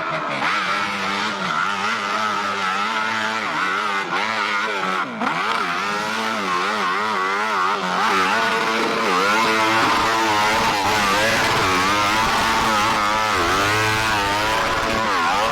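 Motorcycle engines revving hard, their pitch rising and falling again and again with several overlapping. The sound cuts off abruptly at the end.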